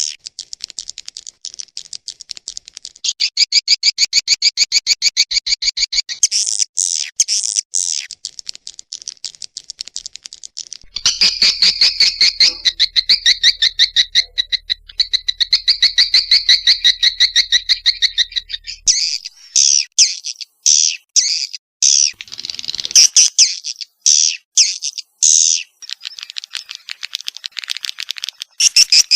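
Swiftlet calls: fast trains of high, chirping twitters that come in blocks and change abruptly from one pattern to another, with a faint low hum under the middle stretch.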